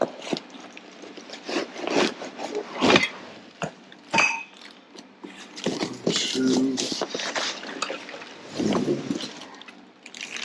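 Irregular metallic clinks, clicks and knocks of tools and car parts being handled and set down, with a short pitched scrape or squeak about six seconds in.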